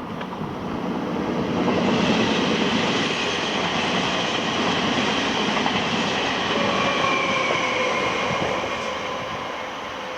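Regional passenger train going by on the rails: its rolling noise rises over the first two seconds, holds, and fades near the end, with a thin high whine in the second half.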